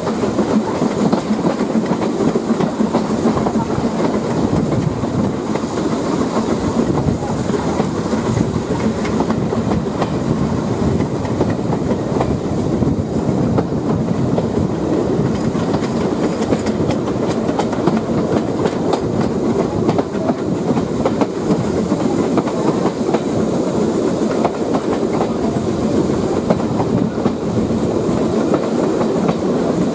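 Railway carriage running at speed, heard from an open window: steady rumble of steel wheels on the rails, with clicks as the wheels pass over rail joints.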